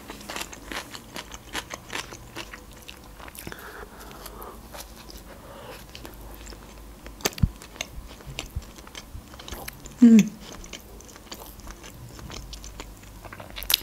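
Close-miked chewing of a cracker topped with cream cheese and trout, crunchy clicks at first and then softer, with a sharp click about seven seconds in and a short hum about ten seconds in.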